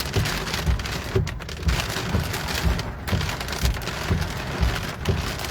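Heavy rain pouring down in a thunderstorm, a steady hiss of rain, with frequent irregular low thuds underneath.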